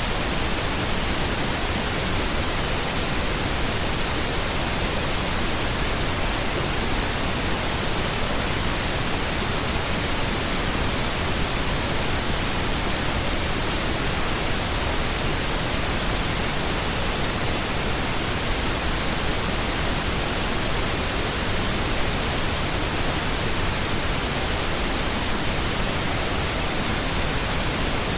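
Steady pink noise: an even, unchanging hiss spread across the whole range, like distant surf.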